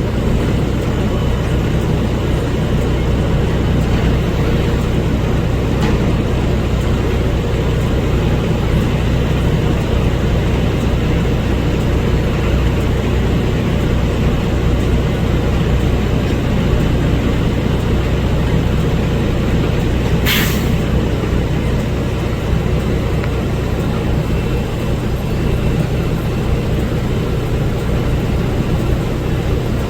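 Garbage truck engine running steadily with a low, even rumble. About two-thirds of the way through comes one short, sharp hiss lasting under half a second.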